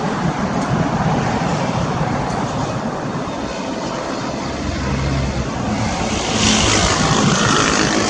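Continuous rumble of a C-130 Hercules's four turboprop engines. About six seconds in, the noise grows louder and brighter with a rising hiss.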